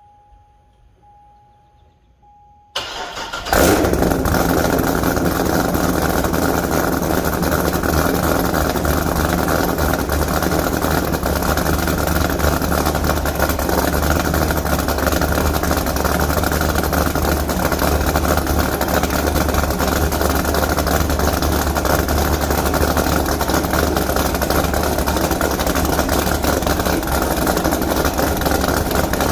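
Corvette C6 Z06's 7.0-litre LS7 V8 through a Corsa Extreme exhaust, cranking and firing up about three seconds in with a loud flare, then settling into a steady, loud idle.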